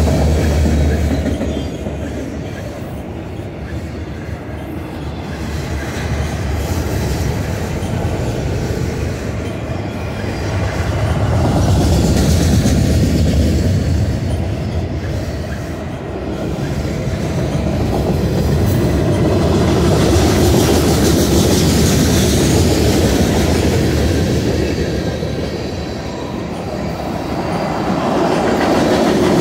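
A freight train's cars, autoracks then tank cars, rolling past close by: a continuous rumble and rattle of steel wheels on the rails. It swells and fades several times as the cars go by.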